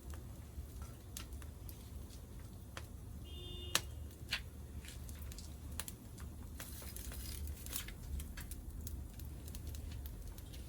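Wood fire crackling in a small fire pit, with irregular sharp pops and snaps over a steady low rumble. A brief high chirp is heard a few seconds in.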